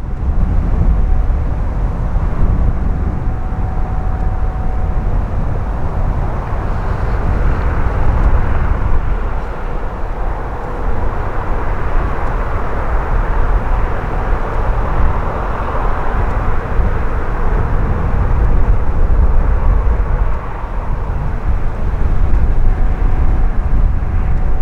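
Boeing 737-800 jet airliner on landing approach, its CFM56 turbofans heard as a steady roar that builds to its loudest about halfway through and then eases. Gusty wind rumbles on the microphone underneath.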